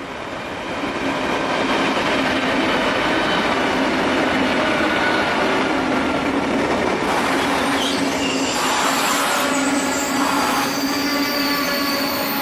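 SBB ETR 610 electric tilting express passing close along the platform. The rumble of its wheels on the rails swells over the first two seconds, then holds loud and steady. Several steady whining tones sound over it, and some of them slide down in pitch near the end.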